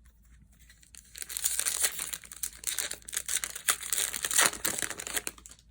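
Foil booster-pack wrapper being torn open and crinkled, a dense crackling that starts about a second in and dies away near the end.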